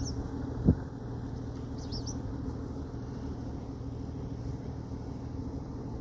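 Fishing boat engine running at a steady low drone, with a single sharp thump about 0.7 s in and a few short bird chirps near the start and again about 2 s in.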